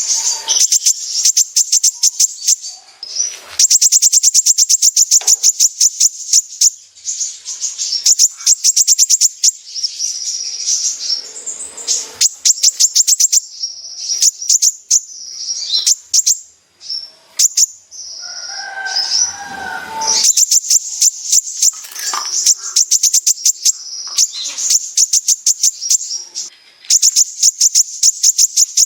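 Purple-throated sunbird (the 'kolibri ninja') singing hard in long, very fast trills of sharp, high chirps, many notes a second, broken by short pauses. A brief lower, rougher call breaks in about two-thirds of the way through.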